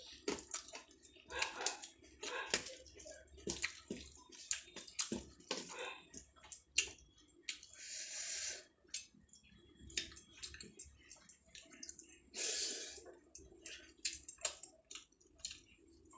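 Close-miked eating sounds: wet clicks, smacks and squelches of chewing a mouthful of rice with curry, with two longer hissy squishes about eight and twelve and a half seconds in.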